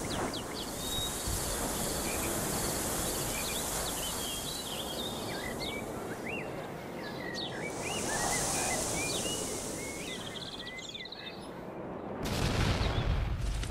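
Outdoor nature ambience: small birds chirping and singing, with many short rising and falling calls, over a steady high hiss. About 12 seconds in, the birdsong gives way to a louder low rumble.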